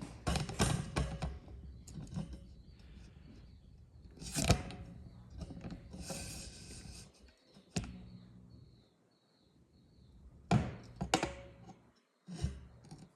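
Scattered sharp knocks and clicks over low handling noise, with the loudest knock about four and a half seconds in and two close together near the end.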